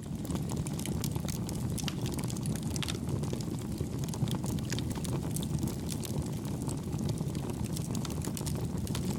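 Campfire burning, a steady low rush of flames with many small, soft crackles and pops scattered through it.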